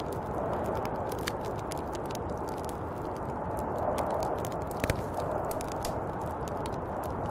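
Snowstorm wind blowing steadily, with scattered small clicks and ticks over it and one sharper click about five seconds in.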